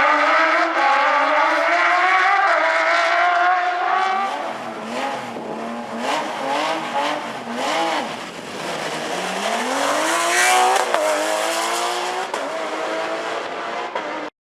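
Porsche rally car's flat-six engine at racing speed: revs climb steadily for the first few seconds, then drop and rise repeatedly through the gears and corners, climbing hard again around ten seconds in. The sound cuts off suddenly near the end.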